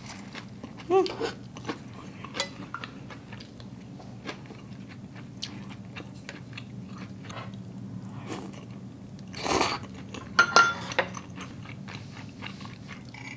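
Close-miked chewing of hot pot noodles: soft wet mouth clicks over a low steady hum, with a brief louder rush of noise about nine and a half seconds in.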